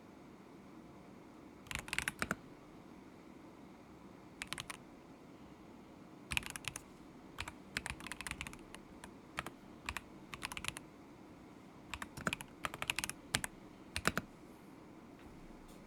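Typing on a stock KZZI K75 Pro mechanical keyboard with Moment linear switches: short, irregular runs of clacking keystrokes with pauses in between.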